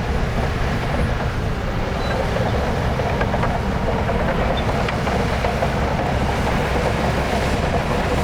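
Heavy diesel earthmoving machinery running steadily under load, a dense low drone with faint scattered clicks.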